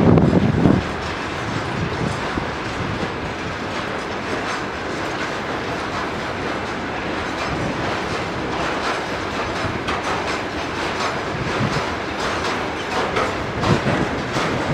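Freight train of covered hopper wagons rolling past, with a steady rumble of wheels on rail and clickety-clack as the wheels cross rail joints. It is loudest in the first second.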